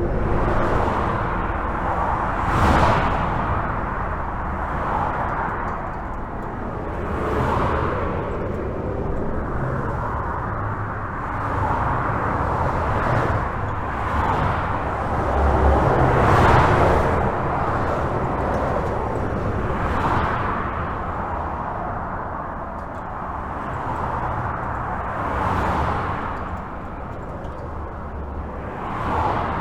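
Steady highway traffic heard from under a bridge: continuous tyre and engine rumble with a car swelling past every few seconds.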